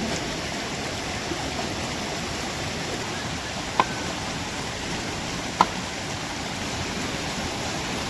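Steady rushing of a stream. Two short, sharp ringing knocks stand out about four and five and a half seconds in.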